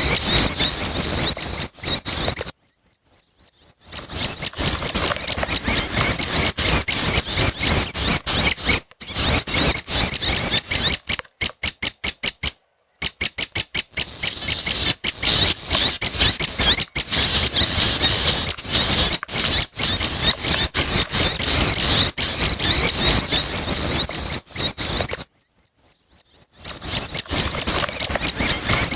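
Young prenjak (prinia) birds calling: dense, high-pitched squeaky chattering that breaks off twice for a second or so, about two and a half seconds in and near the end, with a run of fast, even ticks about halfway through.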